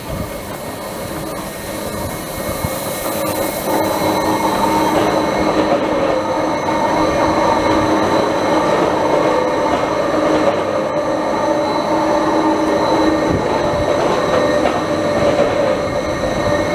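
Jungfrau Railway electric rack-railway train pulling out and passing close by, its cars running over the rack track. There is a steady electric whine from the drive, and the sound grows louder over the first few seconds, then holds.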